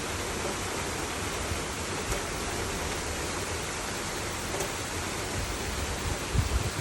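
Steady rain falling, an even hiss with no let-up. A few brief low thumps near the end.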